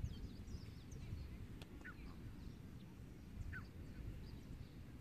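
Birds calling: a short falling call repeated about every two seconds, with faint higher chirps, over a steady low rumble. One sharp click about one and a half seconds in.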